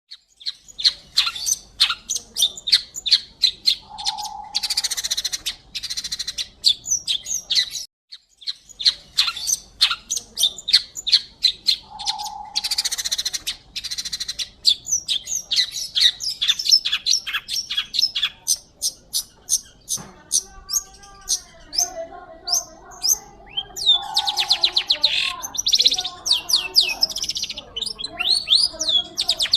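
Long-tailed shrike singing a rapid, varied string of sharp chirps mixed with harsh scratchy bursts. There is a short break about eight seconds in. Later the song turns to lower gliding, warbling phrases.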